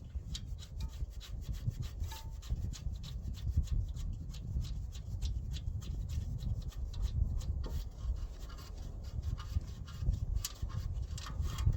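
Socket ratchet clicking in a rapid, steady run as a bolt is loosened.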